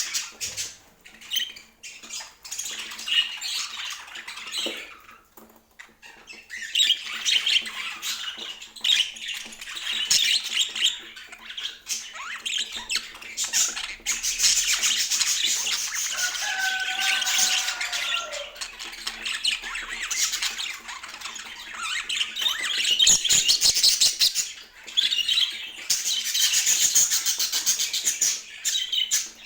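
Budgerigars warbling and chattering rapidly, with a few short lulls. About sixteen seconds in there is one longer call that falls in pitch.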